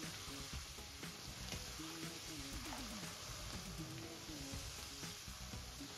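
Onions frying in oil in a stainless steel pan, a steady sizzle, with quiet background music underneath.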